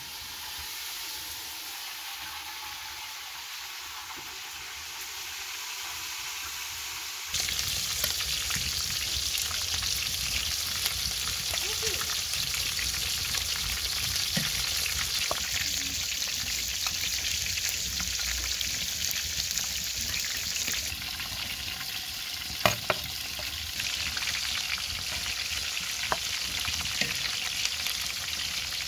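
Chicken and eggplant frying in oil in an aluminium pot, sizzling steadily, with a slotted metal skimmer stirring and clinking against the pot. The sizzle is softer for the first several seconds, then turns suddenly louder, and the skimmer gives a couple of sharp clanks on the pot about two-thirds of the way through.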